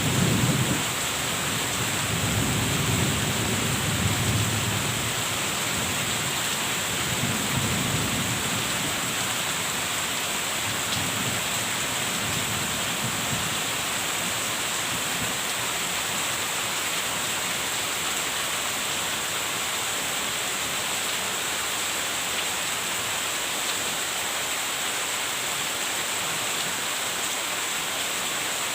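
Steady rain falling, with low rumbles of thunder through the first half that die away, leaving an even rain hiss.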